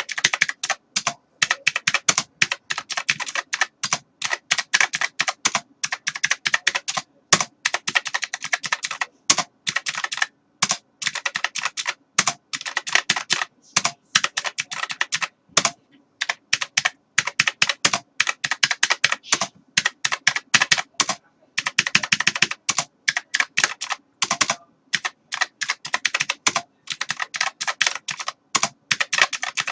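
Computer keyboard being typed on in fast, continuous runs of key clicks, with brief pauses between bursts.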